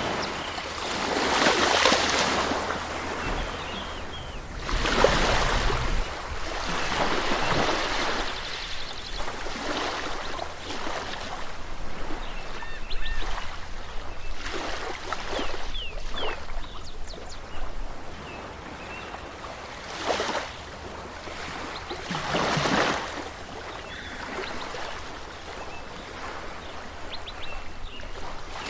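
Waves washing onto a shore: surges of rushing water that swell and fade every few seconds, with a few faint high chirps in the background.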